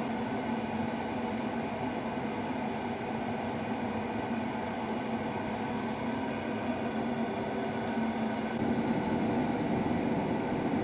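Steady drone of a running engine with a fan, under a steady low hum, growing a little louder about eight seconds in.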